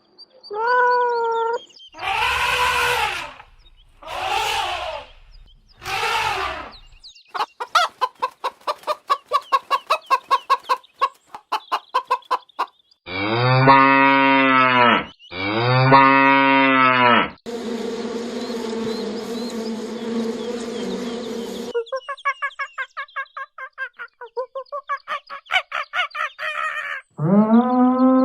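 Farm animal calls in quick succession: chickens clucking in fast runs of short notes, and two long cow moos about halfway through.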